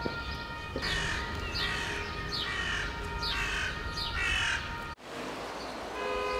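A bird calling again and again, about once a second, each call a short falling cry, over a low rumble and a faint steady chord of tones. The sound cuts off abruptly about five seconds in, and a steady chord of several held tones starts near the end.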